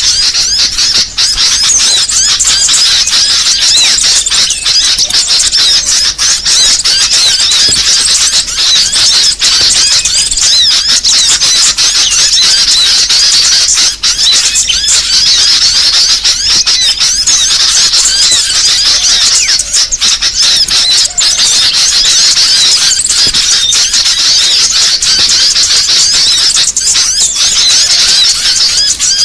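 Dense, noisy chorus of many small birds chirping and squeaking at once, without a break: a bird-lure recording of small-bird calls played to draw in small birds.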